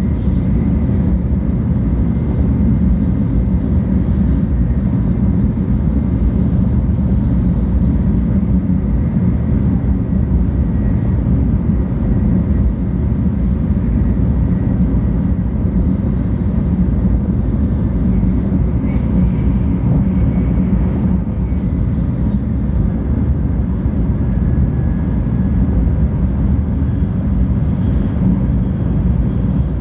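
Steady low rumble and rush of a 700 series Shinkansen train running, heard from inside the passenger cabin, with a few faint steady tones above the rumble.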